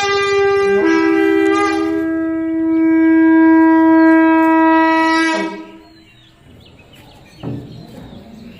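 A horn-like wind instrument blown in a steady, unwavering note: a short blast at the start, then one long held note that stops suddenly about five and a half seconds in, after which it is much quieter.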